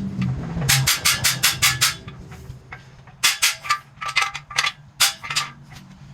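Hammer blows on a cam bearing driver, seating a cam bearing in the engine block: a quick run of sharp metallic strikes, a pause of about a second, then a second, more uneven run of strikes.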